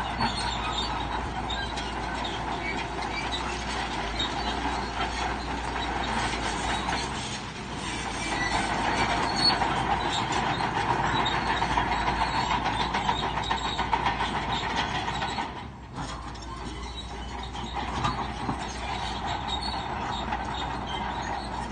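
Crawler bulldozer working, its steel tracks clanking and squealing over a steady engine note. The sound dips briefly twice.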